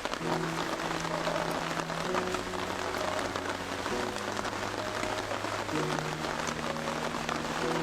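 Heavy rain falling steadily, a dense patter of drops, under soft background music of slow, held chords.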